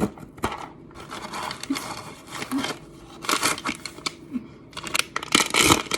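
A Popmart blind box's packaging being torn open and handled: irregular crinkling and tearing with small clicks, and louder rips about three and a half and five and a half seconds in.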